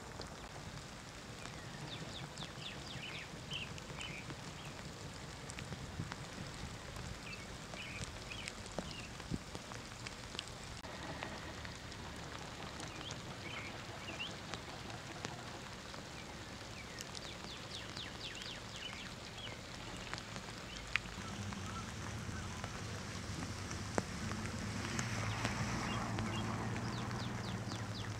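Steady rain hissing over floodwater, with scattered bird calls throughout. A low hum comes in during the last several seconds and grows louder.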